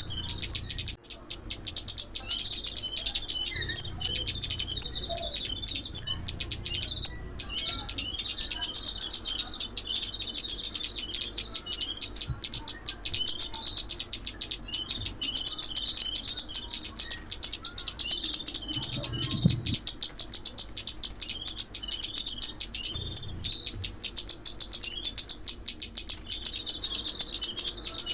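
Recorded song of the "ốc mít" bird, a small songbird the uploader also tags as crimson sunbird: continuous high, rapid twittering chirps with only brief pauses. It is a lure call for trapping.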